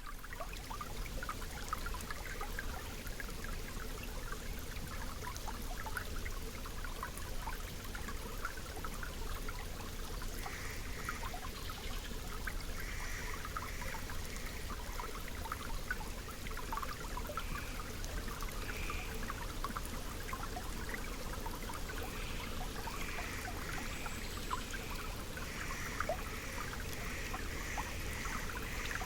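Small forest stream babbling and trickling steadily. From about ten seconds in a bird calls in short repeated notes, more often near the end.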